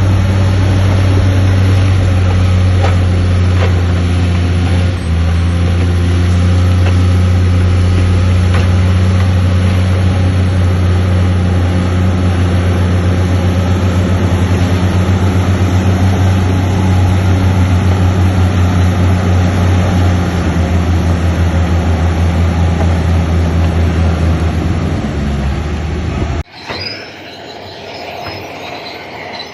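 Heavy diesel engine of earthmoving machinery running steadily and loudly under load with a deep hum. About 26 seconds in it cuts off abruptly, and a quieter sound of metal squealing takes over.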